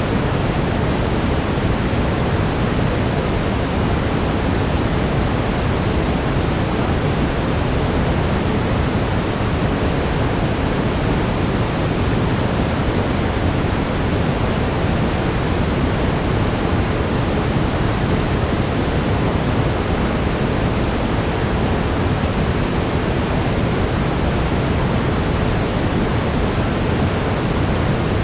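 Brown noise: a steady, unchanging rumbling hiss, strongest in the low end.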